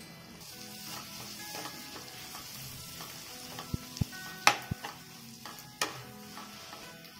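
Chopped tomato and onion masala sizzling in oil in a nonstick frying pan as a slotted spatula stirs it, with a few sharp clacks of the spatula against the pan, the loudest about four and a half seconds in.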